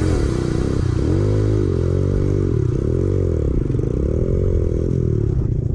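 Small 125cc dirt bike engine riding along, its pitch rising and falling about once a second as the throttle is opened and closed.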